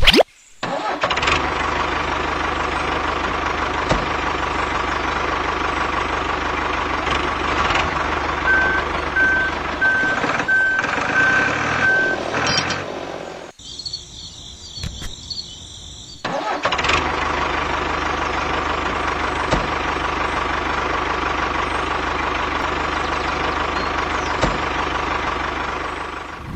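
Tractor engine running steadily. A string of short, evenly spaced beeps sounds about a third of the way in, and the engine drops away for a few seconds around the middle before running on steadily again.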